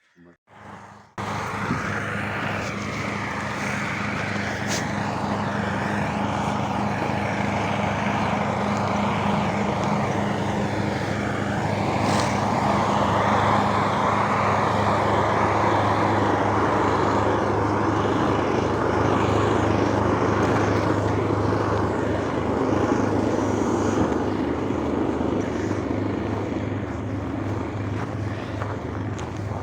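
A vehicle engine running steadily with a broad rushing noise over it, cutting in abruptly about a second in.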